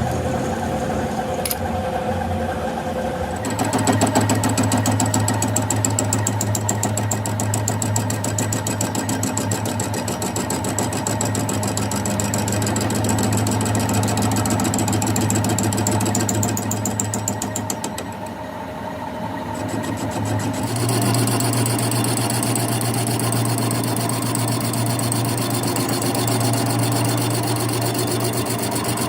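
A shop machine running steadily with a fast, even rattle. It changes pitch and grows louder a few seconds in, dips briefly about two-thirds of the way through, then runs on steadily.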